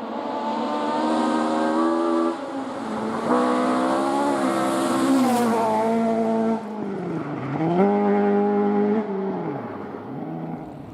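Rally car engine pulling hard with its pitch climbing through the gears and brief drops at the changes. About six and a half seconds in it lifts off, then the revs dip and rise twice as it slows and pulls away again, fading near the end.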